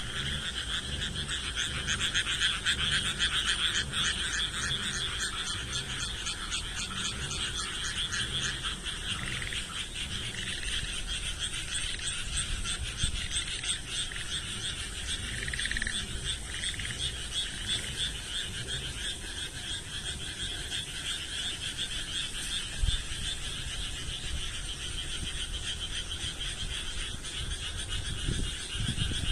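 A chorus of many frogs calling together, their rapid pulsed croaks overlapping into one continuous sound.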